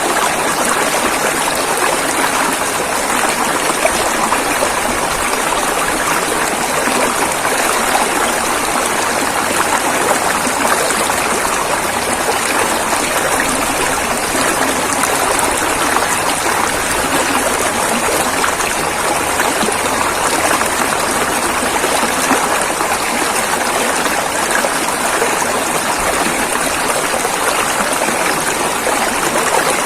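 River water flowing and rushing in a steady, unbroken hiss.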